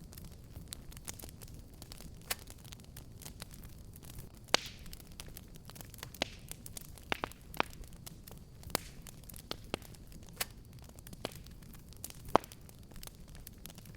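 Fireplace fire crackling: irregular sharp pops and snaps over a steady low rumble of burning, with two louder pops about four and a half seconds in and near the end.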